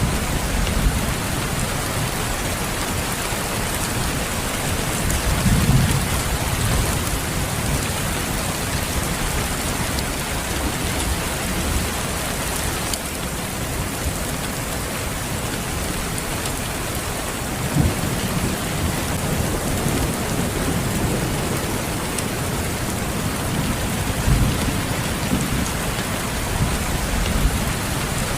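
Steady rain falling, an even hiss, with low rumbles of thunder swelling up a few times: about 6 seconds in, again near 18 seconds and near 24 seconds.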